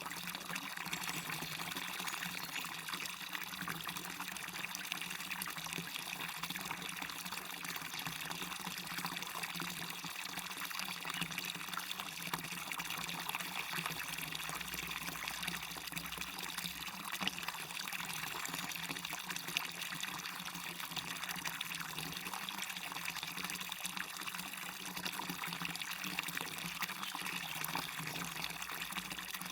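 Water splashing down a small waterfall into a stream: a steady rush of falling water with light, bright splashing and little depth.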